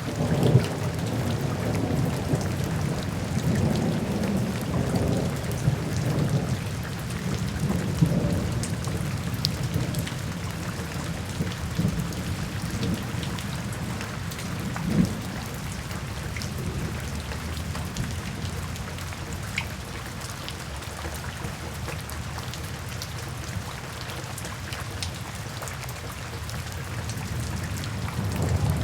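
Steady rain with scattered drop ticks, under rolling thunder: a low rumble that is strongest over the first several seconds, dies down through the middle and builds again near the end.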